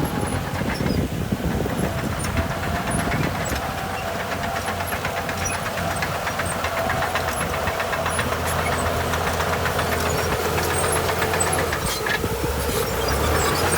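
Heavy diesel earthmoving machinery running steadily, with a faint whine that wavers in pitch and a fine, even clatter.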